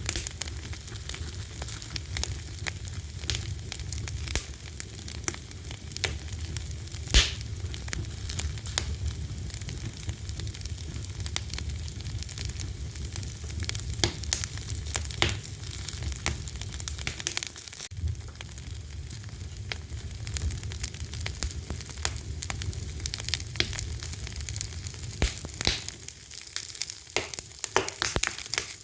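Fire crackling steadily, with many small snaps and scattered sharp pops, the loudest about seven seconds in, over a low rumble that thins out near the end.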